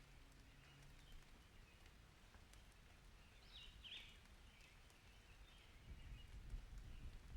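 Near silence: faint outdoor ambience with a few faint high chirps, the clearest pair a little past halfway, and a low rumble that swells near the end.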